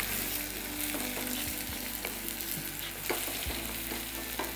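Food frying in hot oil in a pan, a steady sizzle, with a few light knocks scattered through it.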